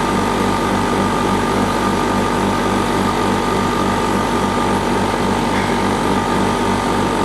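Portable air conditioner running steadily, its compressor humming under the fan's air rush, with a steady whine near the top of the hum. The compressor is cooling: water has begun to condense on the coils.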